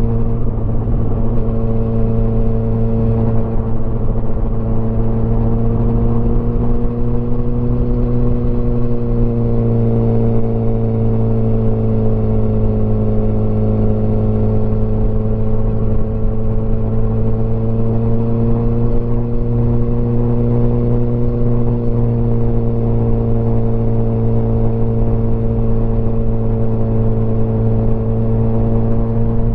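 Motorcycle engine running steadily while riding at cruising speed, its pitch drifting slightly up and down with the throttle.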